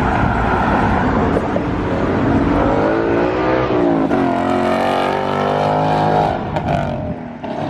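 A car's engine revving hard as it accelerates away. The pitch climbs, drops sharply about four seconds in, climbs again, then falls off and fades near the end.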